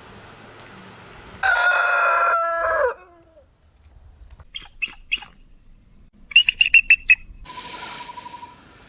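Chickens: a rooster crows once, a held call that drops in pitch at the end. It is followed by sets of quick, sharp clucking calls, the loudest a rapid run of about seven.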